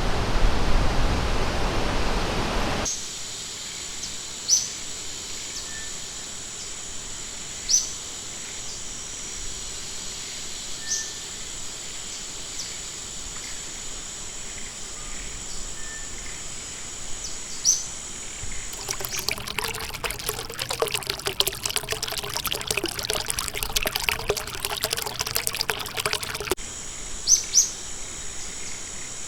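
Rushing river water for about three seconds, then an abrupt cut to a forest ambience: a steady high insect drone with short bird chirps every few seconds. Near the end a dense crackling patch with a low wavering tone joins in for several seconds, then cuts off sharply.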